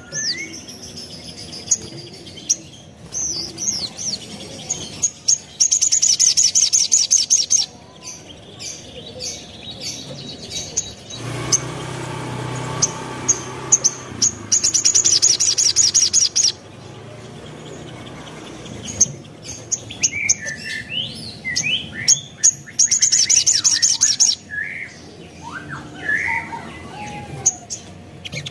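Little spiderhunter (sogok ontong) singing a varied song: three loud, fast, high trills of rapidly repeated notes, with assorted chirps and short whistles between them. A stretch of rougher, lower noise comes near the middle.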